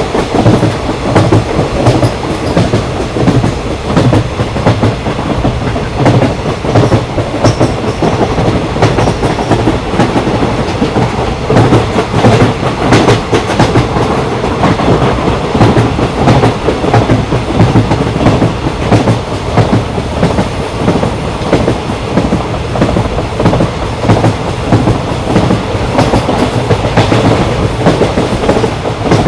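Train rolling along the track: a steady rumble with the wheels' clickety-clack over the rails running throughout.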